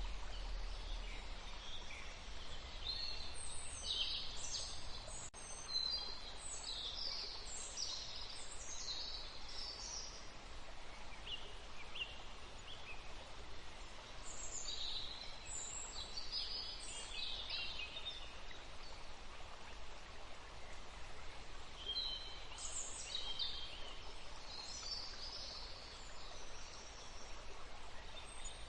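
Forest ambience of songbirds chirping in clusters of quick high notes, with pauses between clusters, over a steady background hiss.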